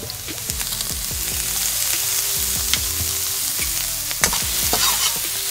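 Diced vegetables sizzling in a hot wok just after sesame oil is poured in, a steady frying hiss with a few sharp clicks.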